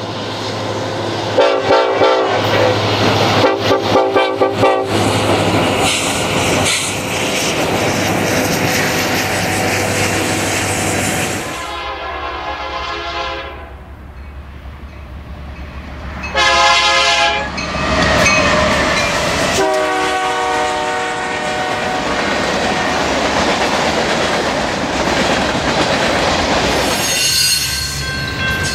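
Freight train diesel locomotives passing and sounding their air horns in several chord blasts, some short and broken, others held for a second or two, over the rumble and clatter of the train on the rails. Near the end a grade-crossing warning bell starts ringing.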